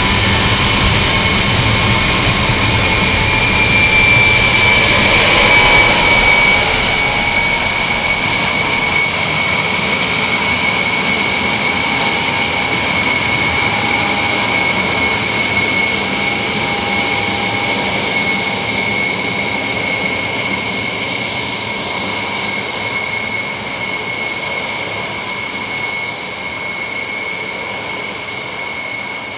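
Engines of the Il-76LL flying laboratory running loud, a steady high jet whine over a rushing roar. It swells about five seconds in and then slowly fades away.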